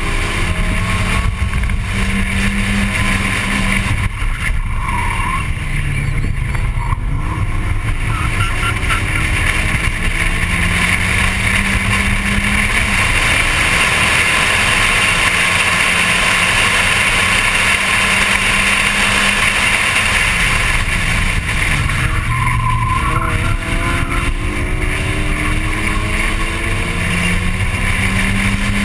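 Volkswagen Golf Mk1's 1.8-litre four-cylinder engine at racing revs: its pitch climbs and drops at gear changes several times and holds steady for several seconds in the middle, over steady wind and road noise.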